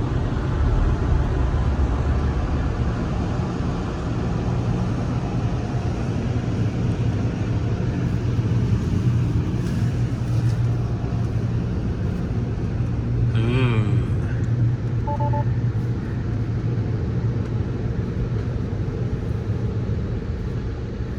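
Automatic car wash dryer blowers running steadily and very loudly, heard from inside the car's cabin as the car passes through the drying stage: a constant rushing noise over a deep hum.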